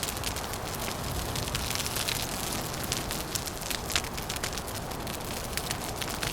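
Wood fire crackling with frequent sharp, irregular pops over a steady low rush of wind.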